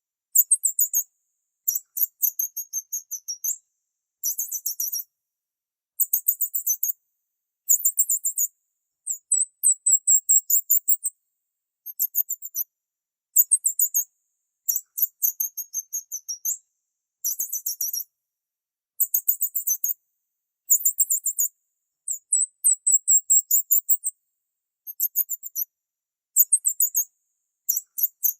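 A small bird singing: short, very high-pitched trilled phrases, each under a second, repeated every second or two.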